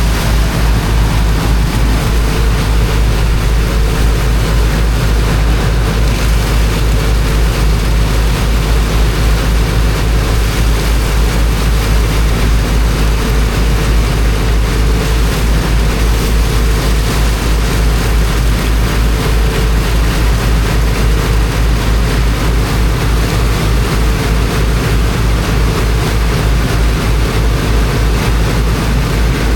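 Engine of a high-pressure water pump running steadily with a fast, even low throb, over a constant rush of water jetting into sand.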